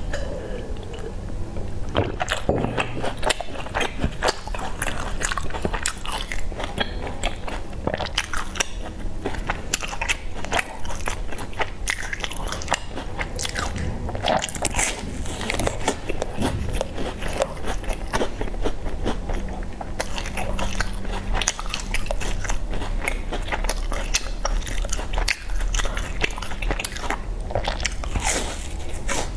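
A person biting into and chewing crisp round baked pastries with sesame-crusted edges, a dense run of crunches and crackles.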